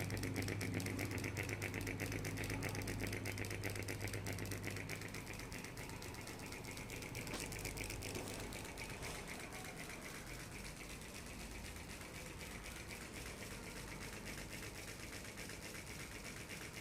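Ceiling fan running with a fast, even clicking rattle over a low motor hum; the hum fades a few seconds in while the rattle goes on.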